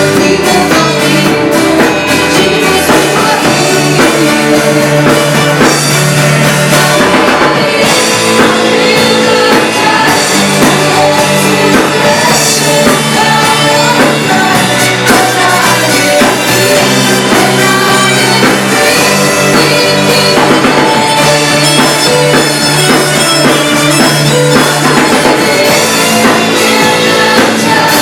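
A worship band rehearsing a song at full volume, with drum kit, guitar and singing.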